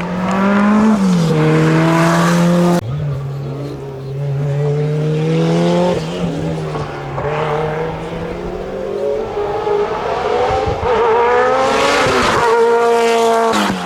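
Rally car engines revving hard and changing up and down through the gears, with the pitch climbing then dropping at each shift. The sound jumps abruptly about three seconds in, again around six seconds, and near the end, as one car gives way to another.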